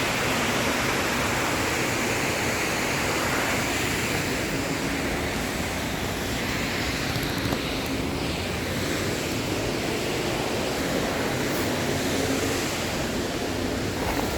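Waterfall: a steady rush of falling water, close by.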